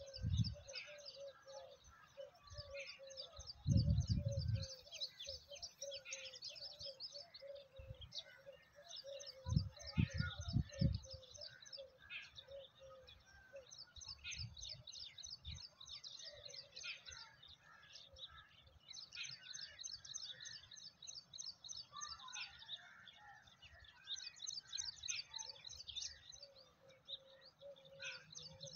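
Many birds chirping, with high rapid trills coming in repeated bouts over a lower note that repeats throughout. Low thumps of wind or handling on the microphone come twice, at about 4 seconds and again around 10 seconds.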